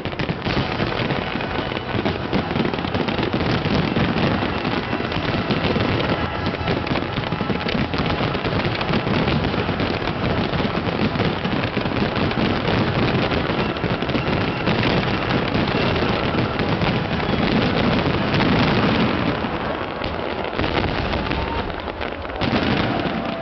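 Fireworks finale: a dense, continuous barrage of bursts and crackling with no gaps, dipping slightly about twenty seconds in before a last loud surge near the end.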